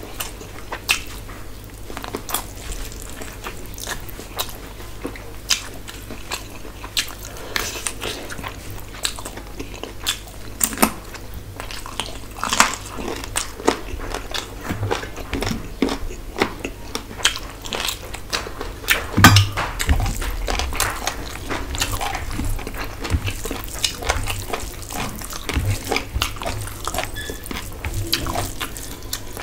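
A person chewing and smacking while eating rice and curry with the hand, in a dense run of short wet clicks, with one louder knock about nineteen seconds in.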